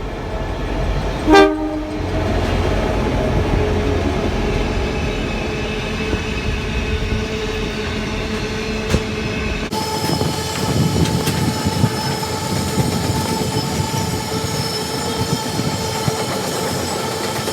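A train passing, with one short horn blast about a second and a half in, then continuous rail running noise with steady ringing tones from the wheels. The sound changes abruptly partway through.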